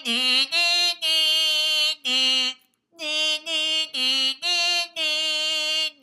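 A woman singing a simple wordless tune on short repeated syllables: the golden bird's song in the story. It runs as about nine clear notes, two of them held for about a second.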